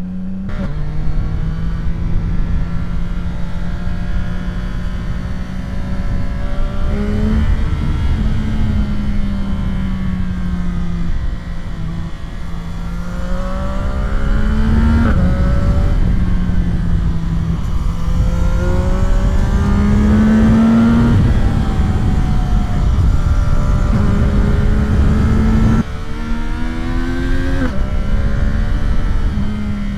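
CFMOTO 675 SR-R motorcycle's inline three-cylinder engine running on the move, its pitch rising and falling gently several times with the throttle, over a steady low rush of wind. Near the end the sound dips briefly, then climbs again.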